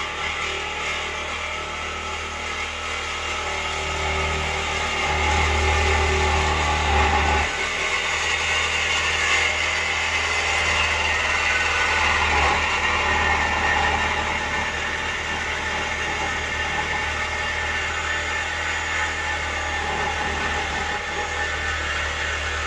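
Jeep Grand Cherokee engine running through a straight-piped exhaust with the mufflers cut off. It runs steadily, getting louder a few seconds in and then holding.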